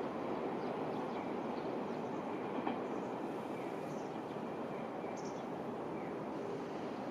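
Electric passenger train running along the track, a steady rumble of wheels and motors that slowly fades.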